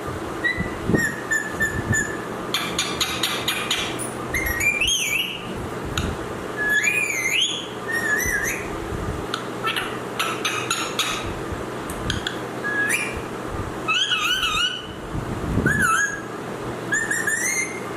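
A pet parrot whistling: a string of short rising, stepped and wavering whistles, with bursts of quick clicking chatter between them.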